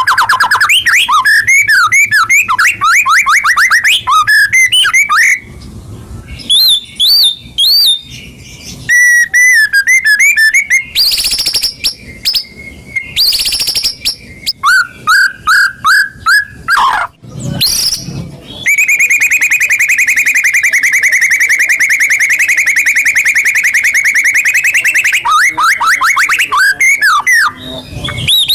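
White-rumped shama (murai batu) singing a varied song of fast repeated notes, rising and falling whistles and quick chattering phrases. About two-thirds of the way in it holds one long, even, rapid trill for around six seconds, then breaks back into quick phrases.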